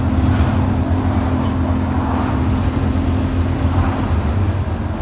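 Scania N230UD OmniCity double-decker bus's five-cylinder diesel engine running steadily, with a steady whine over it that stops about four seconds in.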